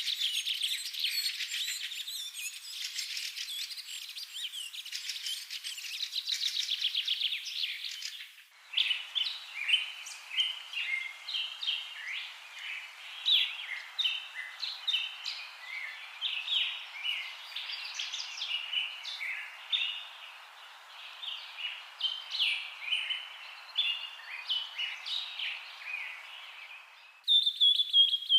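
Many birds chirping and calling, a dense chorus of short, quick chirps and trills. The recording changes abruptly about eight seconds in and again near the end.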